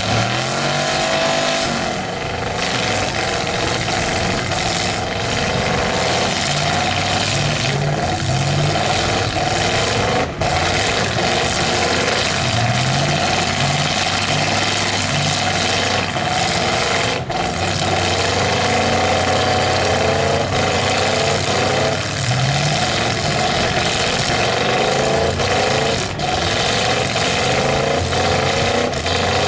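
Demolition derby car engines revving hard again and again, the pitch climbing and dropping every second or two, over a steady rushing noise.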